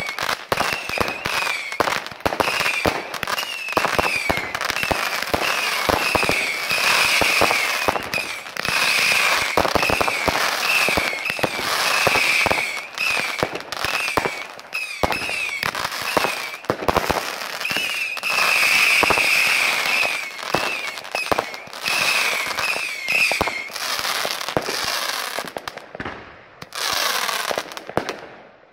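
Consumer fireworks batteries and ground fireworks firing in quick succession: a dense string of sharp bangs and crackles, with repeated short high whistling tones. The firing thins out near the end, then a few last bangs follow.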